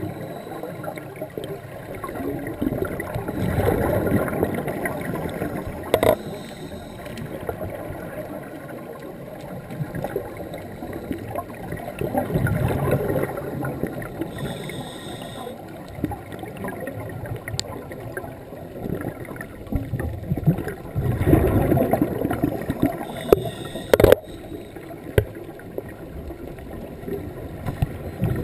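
Scuba diver breathing underwater: exhaled bubbles from the regulator gurgle out in a swell about every nine seconds, over a steady underwater hiss. A few sharp clicks are heard, one about six seconds in and one near the end.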